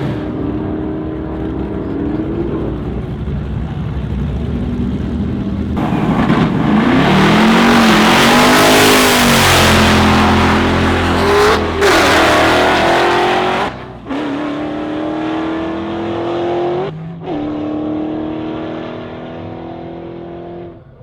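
V8 drag cars at full throttle, the engine notes climbing in pitch as they accelerate down the strip. About six seconds in, a louder, denser stretch of engine noise lasts roughly seven seconds. The sound changes abruptly several times, as separate runs follow one another.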